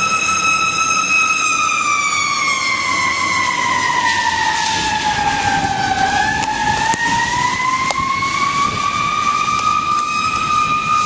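Fire engine siren in a slow wail. It holds a high steady tone, slides down in pitch for about four seconds, then climbs back up over the next four, over steady background noise.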